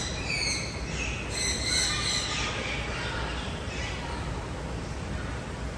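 Birds calling, with a burst of short, high chirps in the first two seconds and fainter calls after, over a steady low background rumble.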